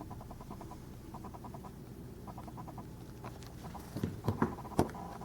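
Faint rapid ticking, then a few sharp clicks and taps from handling a small diecast model truck, the loudest about four seconds in.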